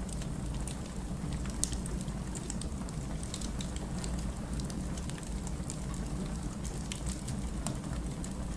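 Wood fire burning, with a steady low rumble and irregular crackles and pops of the burning logs; one louder pop about a second and a half in.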